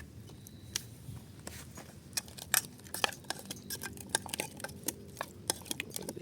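A spoon clicking and scraping against a cooking pan while seasoned chicken and onions are stirred, giving many sharp, irregular clicks and knocks.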